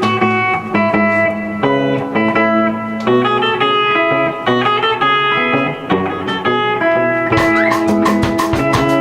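A live band playing an instrumental fusion piece: guitar lines over bass, with the drums coming in about seven seconds in.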